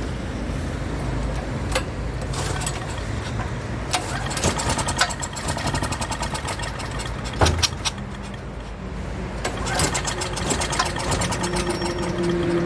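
Small generator engine running, with a steady low rumble and rapid clicking and rattling; a steady hum tone comes in near the end.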